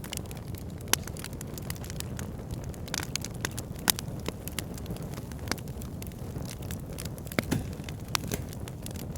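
Wood fire in a backyard fire pit crackling: frequent sharp pops and snaps over a steady low rumble, the sharpest pops about one and four seconds in.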